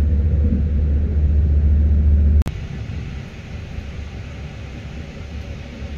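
Running noise inside a passenger train carriage: a steady, heavy low rumble that drops suddenly about two and a half seconds in to a quieter, steady ride noise.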